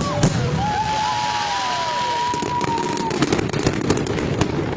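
Fireworks display: a dense run of sharp bangs and crackle, with a high drawn-out tone through the middle, part of it falling in pitch.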